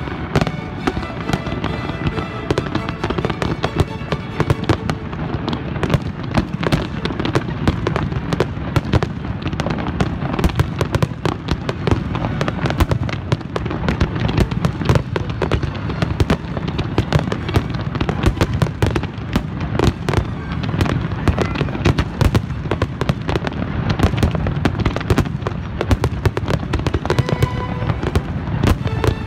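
Large aerial fireworks display: a dense, unbroken barrage of shell bursts and bangs in quick succession, with music underneath.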